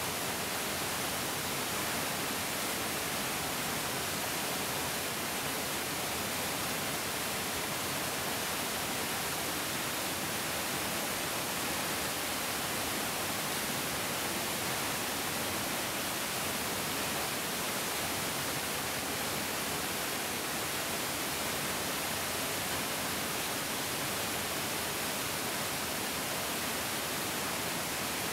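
Mountain stream flowing fast, a steady, even rush of water with no breaks.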